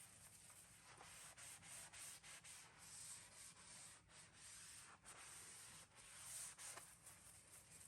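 Faint rubbing against a surface, a run of irregular short strokes.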